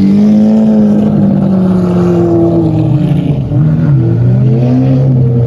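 Car engine running loudly at a steady note, easing off and dropping in pitch about four seconds in, then holding the lower note.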